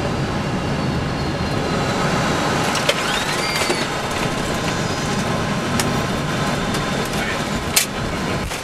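Steady rushing noise of a Boeing 747 flight deck during the landing, engines and airflow together, with a few sharp clicks, the loudest near the end, and a faint rising whine about three and a half seconds in.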